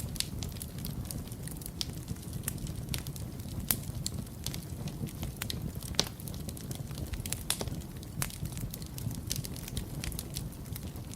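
Fireplace fire crackling: frequent irregular sharp pops and snaps over a steady low rumble of the flames, with the loudest pops about four and six seconds in.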